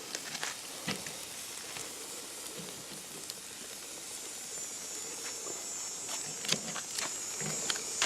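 Game-bird meat sizzling on a grill: a steady hiss with scattered crackling pops, joined about four and a half seconds in by a higher, steadier hiss.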